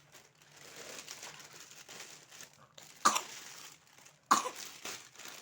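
Two short coughs about a second apart, a little past the middle, over a soft rustle of the robot vacuum's plastic packaging being handled.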